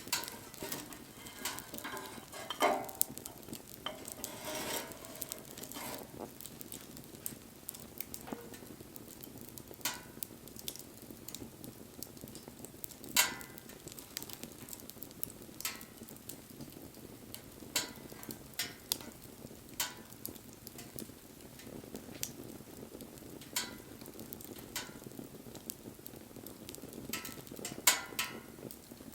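Wood fire burning with a steady hiss and irregular sharp crackles and pops, about one every two to three seconds, with brief hissing in the first few seconds.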